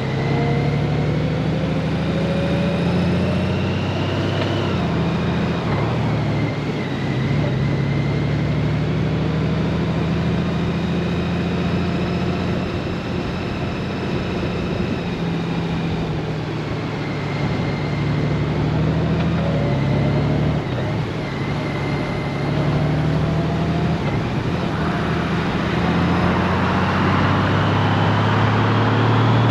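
Honda GoldWing motorcycle engine running under way, its pitch rising and falling as the speed changes, over steady wind and road noise. A louder rush of noise comes in during the last few seconds.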